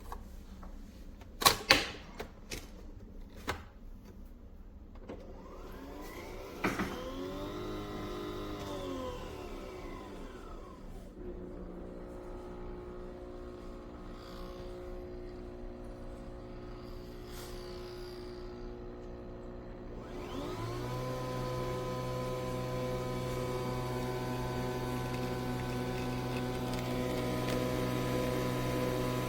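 Nespresso Vertuo Pop+ capsule coffee machine brewing. A few sharp clicks come near the start, then the motor whirs up and back down in pitch about six seconds in, then a steady motor hum with several tones that gets louder about twenty seconds in as the capsule spins for extraction.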